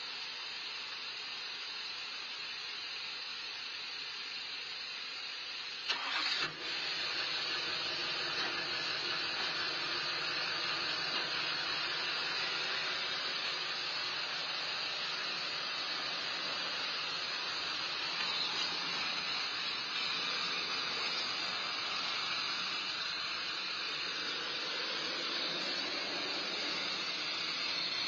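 A vehicle engine starting about six seconds in, then running steadily under a constant hiss.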